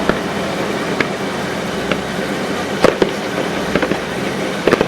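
Aerial fireworks bursting: sharp bangs about once a second, a rapid cluster of several near the end, over a steady background rumble and hiss.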